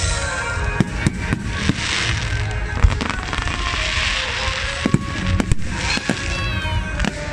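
Aerial fireworks display: a rapid, irregular series of bangs from bursting shells over a continuous hiss and crackle.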